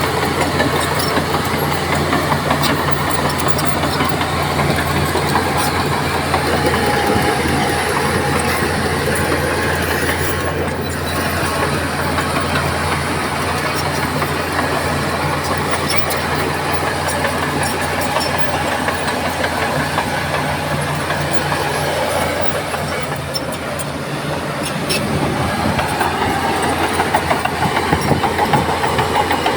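Diesel engine of a Shantui crawler bulldozer running steadily under load, with scattered metallic clanks; it grows louder near the end.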